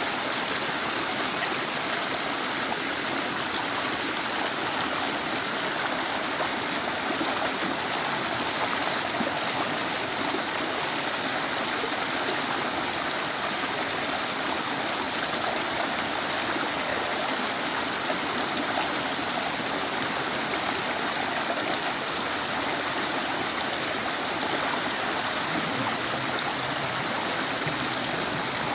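Mountain valley stream flowing steadily, an even rush of water with no let-up.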